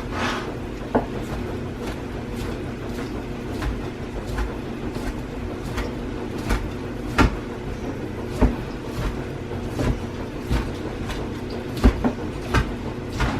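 A kitchen knife knocking on a cutting board at an irregular pace, about once a second, while cooked chicken breast is sliced, over a steady low hum.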